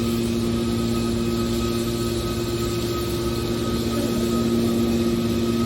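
Aluminium can baler's motor and hydraulic pump running with a steady hum.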